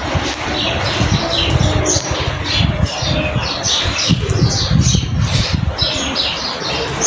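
Birds chirping busily, many short calls falling in pitch one after another, over a low rumble.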